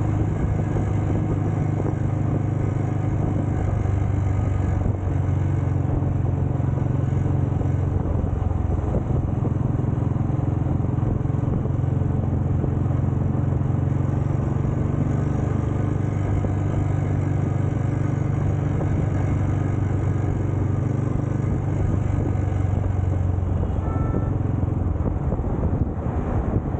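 Motorcycle engine running at a steady, even speed.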